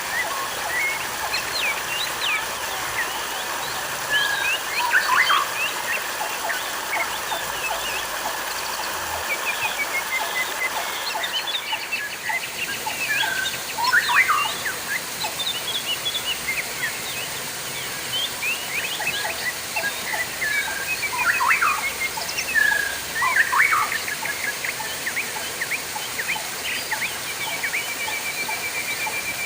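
Steady trickling water with small birds chirping over it, many quick sharp calls scattered throughout and a fast even trill near the end.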